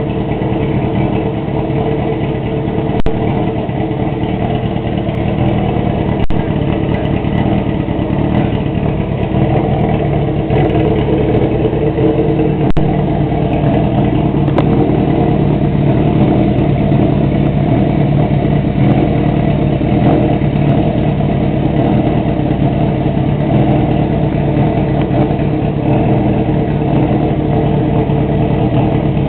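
1994 Honda CB400 Super Four's inline-four engine idling steadily through a straight-through aftermarket exhaust, with a few brief clicks.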